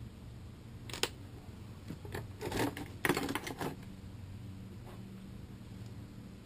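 Engine parts being handled: a few light metallic clicks and rustles about a second in and again around the middle, over a low steady hum.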